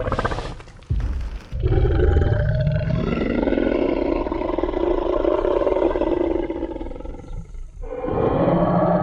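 Designed Tyrannosaurus rex roar sound effect: short growling sounds in the first second and a half, then one long, deep roar of about six seconds, and another roar starting near the end.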